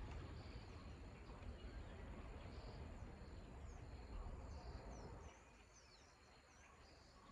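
Faint outdoor ambience: a low rumble that stops about five seconds in, under small birds chirping and insects calling.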